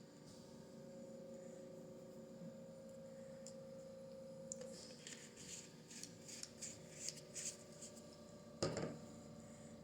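Faint, quick scratchy strokes of a paintbrush on canvas for about three seconds from midway, then a single knock near the end. A faint steady hum stops about halfway through.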